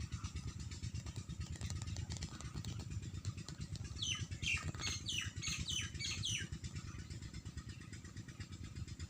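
A bird calling a quick run of about seven sharp, falling chirps about four seconds in, over a steady low fluttering rumble.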